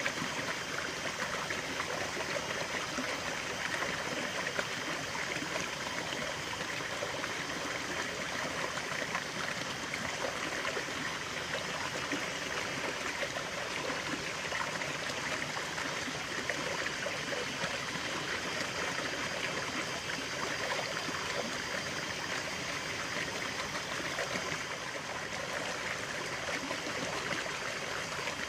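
A stream of running water flowing and trickling, a steady, even rush.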